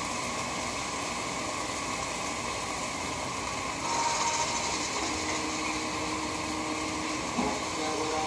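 Steady hiss of food frying in a wok, over a steady machine-like hum. The hiss grows louder and brighter about four seconds in, as more sliced tomato goes into the hot pan.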